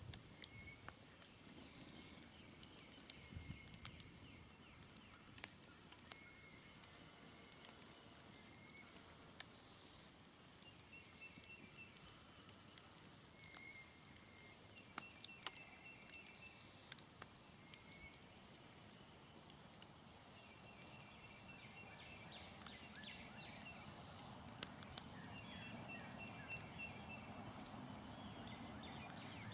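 Smoldering campfire crackling faintly with sparse sharp pops, under short repeated high chirps of birds or frogs. In the last several seconds a low, even rumbling noise slowly grows louder.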